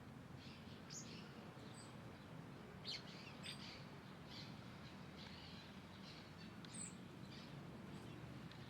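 Small birds chirping: short, high calls come every second or so, one with a quick sliding note near the end. A faint steady low hum runs underneath.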